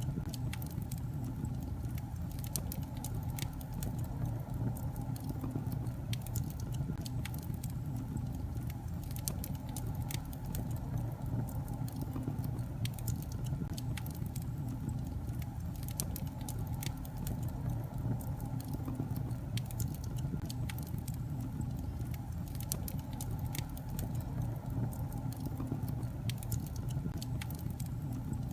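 Wood fire burning in a fireplace, with a steady low rumble of flames and frequent irregular sharp crackles and pops from the logs.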